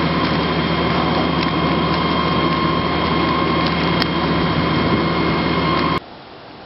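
Steady machine noise with a constant whine over a low hum, starting and cutting off abruptly about six seconds in.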